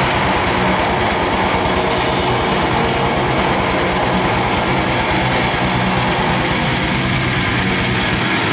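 Live band music with guitar playing steadily, loud and dense, with no voice over it.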